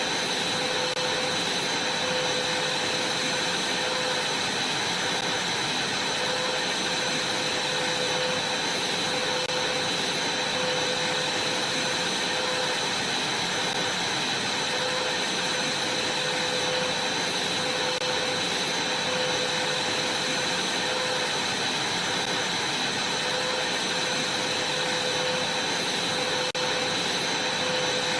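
Vacuum cleaner running steadily: an even rush of air with a constant whine over it.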